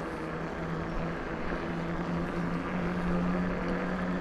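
Electric bike motor humming steadily while riding, over a low rumble of wind and tyres; the hum's pitch steps up slightly a little over halfway through.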